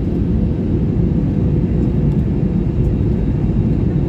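Steady low rumble of an airliner's engines and rushing air as heard inside the passenger cabin, with a faint steady hum in it.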